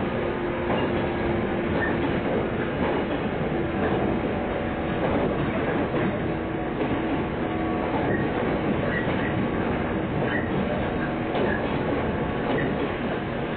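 Running noise of a 115-series electric train heard from inside the carriage: a steady rumble of wheels on rail, with a faint hum at a steady pitch underneath.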